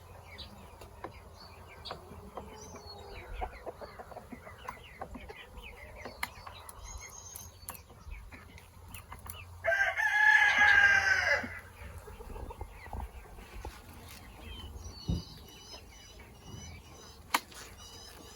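A rooster crows once, loud and drawn out for about two seconds, about ten seconds in. Quieter chicken clucks and small bird chirps go on around it.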